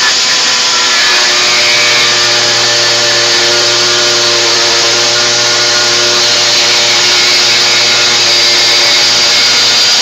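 Air-powered cutter running steadily at high speed with a constant whine, cutting out the radio opening in the truck's dash.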